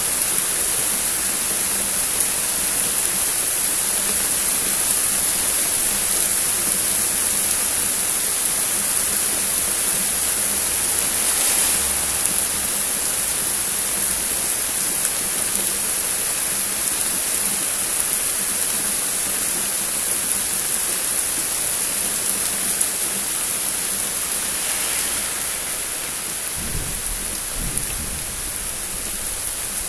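Heavy rain falling steadily with a constant hiss. A low rumble of thunder comes in near the end.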